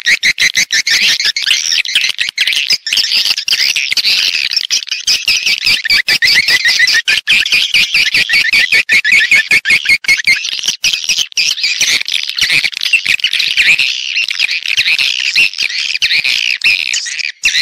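A dense chorus of swiftlets calling: rapid, continuous twittering chirps laced with a rattle of sharp clicks. It is the kind of recorded call played as a lure to draw swiftlets into a nesting house.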